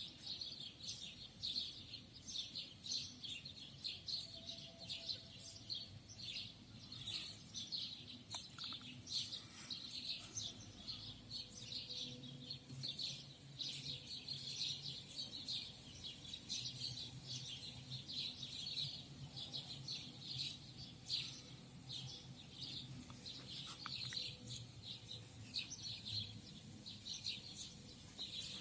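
Many small songbirds singing at once: a dense, continuous chorus of quick, high chirps and short trills overlapping without a pause.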